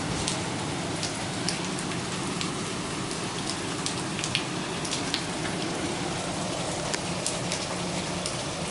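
Steady rush of falling water with many scattered small splashes and drips.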